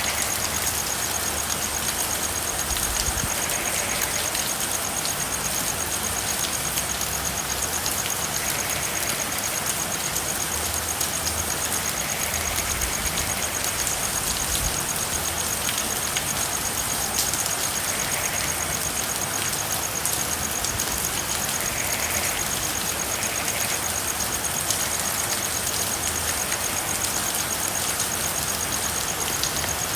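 Steady rain falling, with frogs giving a few short calls every few seconds. A continuous high, fast-pulsing trill runs under the rain.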